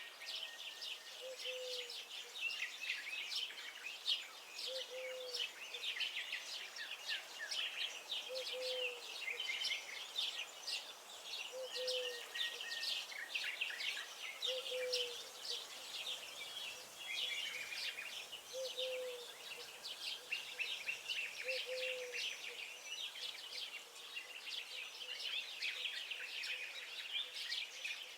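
Dense chorus of many songbirds singing and chirping over each other, with a short low call repeating about every three seconds, seven times, stopping about three-quarters of the way through.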